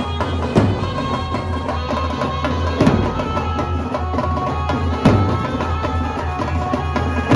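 Loud drum-heavy music played over a large DJ sound system, with a deep sustained bass and a held melodic line. A hard drum hit lands about every two seconds.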